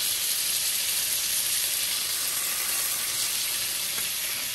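Minced garlic sizzling steadily as it sautés in melted margarine in a frying pan.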